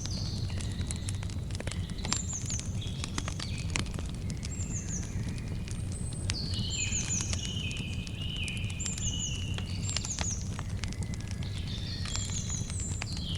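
Campfire crackling, with frequent sharp pops over a steady low rumble, while birds call throughout: repeated short, high, falling chirps in little groups and lower whistled notes.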